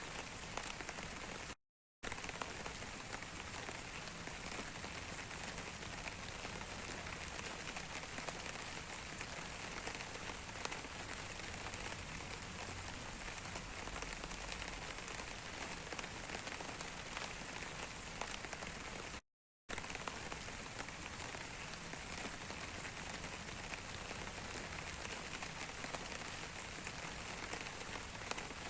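Steady rain falling on a surface, a constant hiss with many small drop ticks. The sound cuts out completely twice, for under half a second each, about two seconds in and again near the middle.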